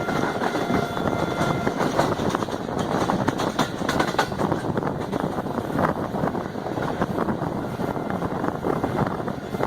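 Train running on the rails: a steady rumble of wheels on track with dense rapid clicking and clatter, and a faint high wheel squeal in the first couple of seconds.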